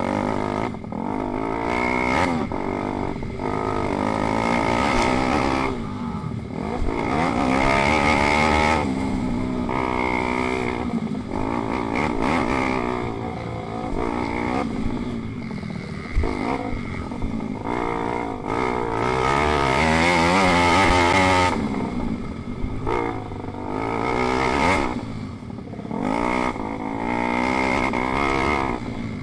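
Pit bikes racing: their small single-cylinder engines rev up and drop back again and again as they accelerate and shift, with more than one bike heard at once.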